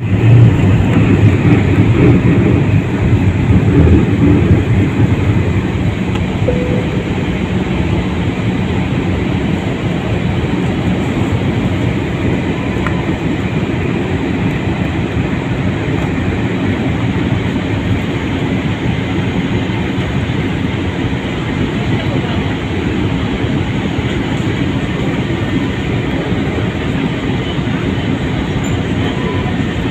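Steady low rumble and rushing noise inside an airliner cabin, louder and rougher for the first few seconds before settling to an even drone.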